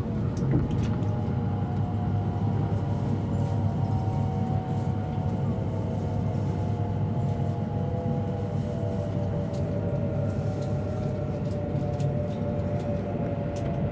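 E7 series Shinkansen running, heard from inside the passenger cabin: a steady low rumble with a few faint tones that slowly fall in pitch.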